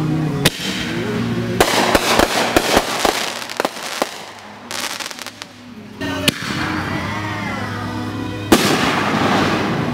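Consumer aerial fireworks going off: a sharp bang about half a second in, then a dense run of crackling pops for about two seconds, and another bang near the end.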